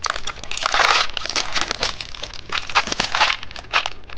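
Plastic candy packaging crinkling and crackling in irregular bursts as a phone-shaped candy is unwrapped and opened.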